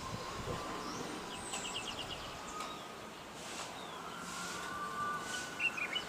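Small birds chirping outdoors: a quick trill of about six notes a second or so in, and a few more chirps near the end, over a steady background hum. A faint held tone sits under it at the start and again for the last couple of seconds.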